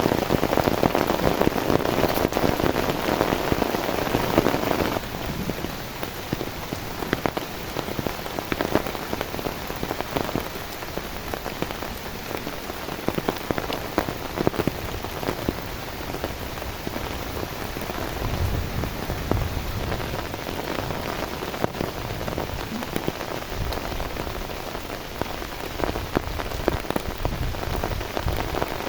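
Heavy rain falling on a surface, a dense patter with individual drops ticking through it. It is louder for the first five seconds, then drops to a lighter rain with more distinct drop ticks, and a couple of low rumbles come in the second half.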